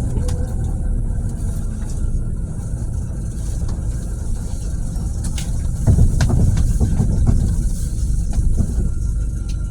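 Scania bus with a Lahti Scala body running, a steady low engine and road rumble with small scattered rattles. The rumble swells louder about six seconds in.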